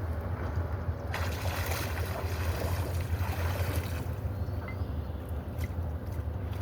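Steady low rumble with a haze of wind and water noise, broken by a few faint knocks.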